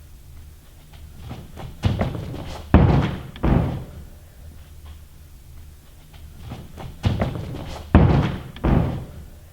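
Thuds of a gymnast tumbling: two runs of three heavy landing thumps each, the first starting about two seconds in and the second about seven seconds in.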